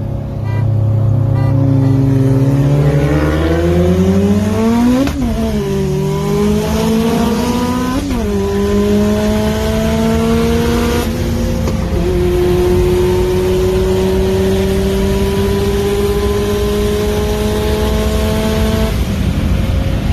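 Turbocharged Ford Focus RS with a cat-back exhaust accelerating hard from a roll. Its engine pitch climbs steeply, drops sharply at two upshifts about five and eight seconds in, then rises slowly through a long pull in a higher gear before easing off near the end.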